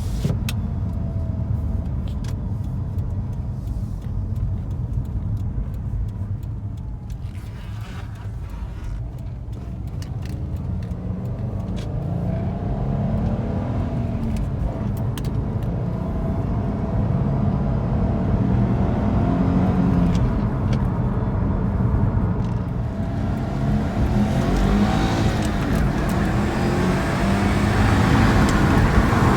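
Stock 2012 Subaru Impreza STI on the move: steady road and tyre rumble, with its turbocharged 2.5-litre flat-four engine note rising and falling in pitch through acceleration and gear changes, growing louder in the second half.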